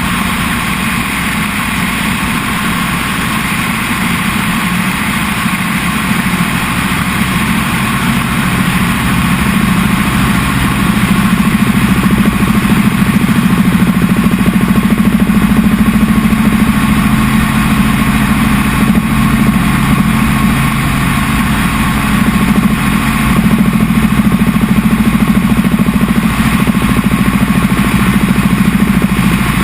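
Helicopter in flight: a steady engine and rotor drone that grows a little louder about ten seconds in.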